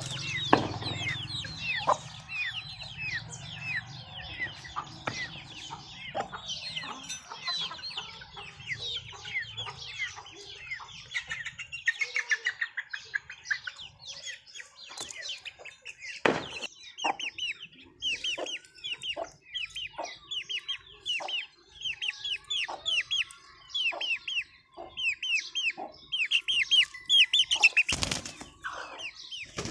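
Aseel chickens clucking and calling, with rapid runs of short, high, falling cheeps. A few sharp knocks, the loudest near the end.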